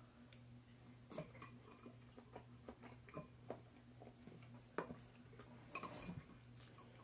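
Faint, scattered clicks and taps of eating: a utensil knocking against a dish, with chewing, over a low steady hum. The sharpest tap comes a little under five seconds in, with a short cluster about a second later.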